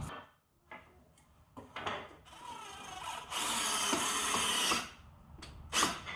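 Power drill boring a pilot hole into pine 2x4 for about a second and a half near the middle, with a few short knocks of handling the wood and tool before and after.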